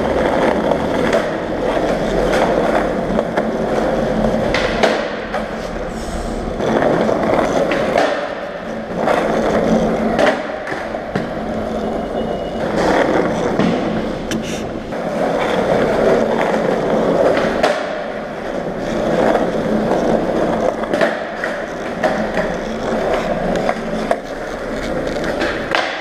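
Skateboard wheels rolling over car park asphalt, the rumble swelling and fading every few seconds, with a few sharp clacks of the board.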